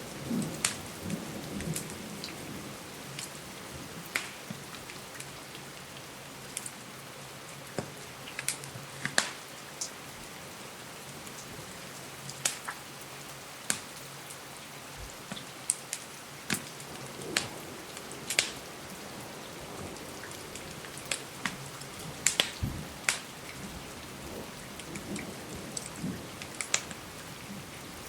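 Steady rain hiss overlaid with irregular sharp crackles and pops from a wood fire, with a soft low rumble in the first couple of seconds.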